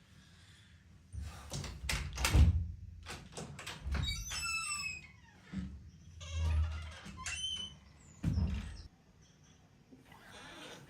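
A series of knocks and thumps in quick succession, with a short high squeak about four seconds in.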